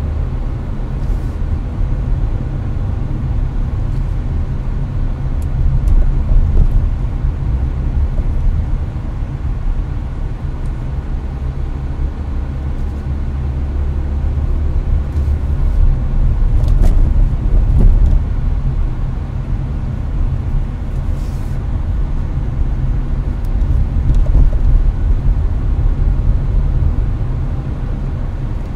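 Hyundai Avante cruising at highway speed, heard from inside the cabin: a steady low road and engine rumble mixed with the hiss of the air conditioner blowing.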